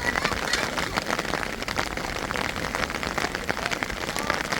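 Heavy rain falling, a steady dense patter of drops striking surfaces close by.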